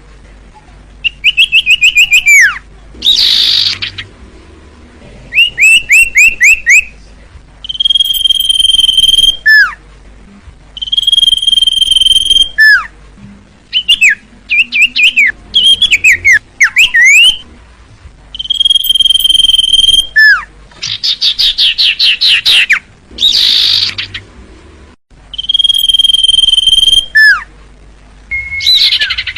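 Common iora (cipoh) singing: long level whistles of about a second and a half, each ending in a quick falling note, alternating with runs of rapid chirps and fast trills. The phrases start and stop abruptly, as in an edited, repeating song recording.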